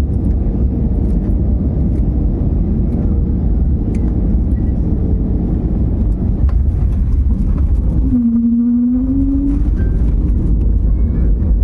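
Loud, steady rumble inside an airliner's cabin just after touchdown: engine and runway noise as the plane rolls out. About eight seconds in, the deepest rumble briefly drops away and a short rising tone sounds.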